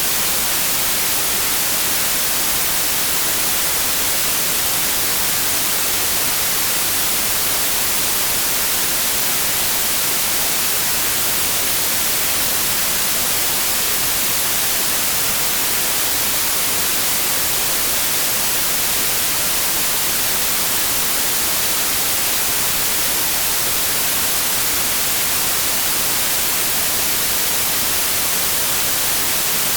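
Synthesised white noise: a steady, unchanging hiss, brightest in the high frequencies.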